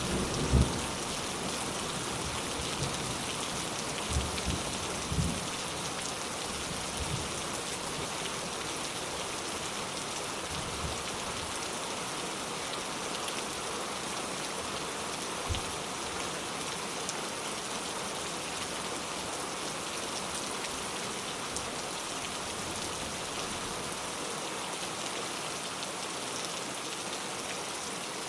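Steady rain, with the tail of a low thunder rumble dying away in the first second and a few brief low thuds over the next fifteen seconds.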